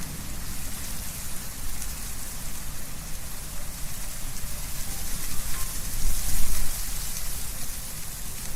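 Wind blowing through trees with leaves rustling, a steady hiss over a low rumble, swelling in a stronger gust about six seconds in.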